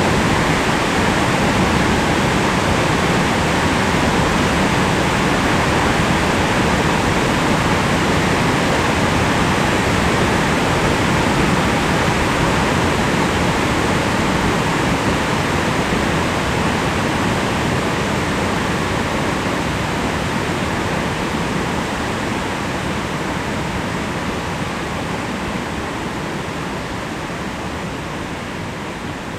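Mountain stream water rushing: a loud, steady rush that eases slightly over the last several seconds.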